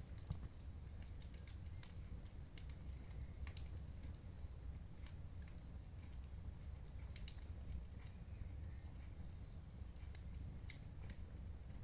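Wood fire crackling in a fireplace: scattered sharp snaps and pops at irregular intervals over a faint low rumble.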